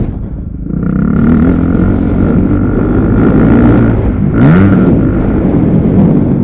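Motocross dirt bike engines running and revving on a track, the pitch rising and falling. About four and a half seconds in, one engine sweeps up and back down loudly.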